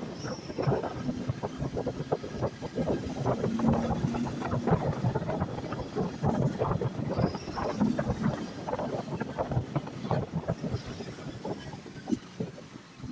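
160 cc motorcycle being ridden: wind buffets the microphone heavily over a steady engine hum that stands out now and then.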